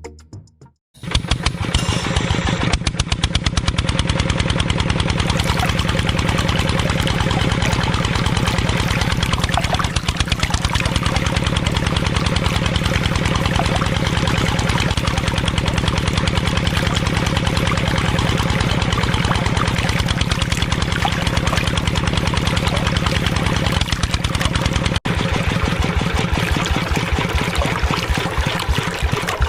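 Small engine of a homemade mini tractor running steadily with a fast, even chugging beat. It comes in abruptly about a second in, and near the end the beat becomes slower and more distinct.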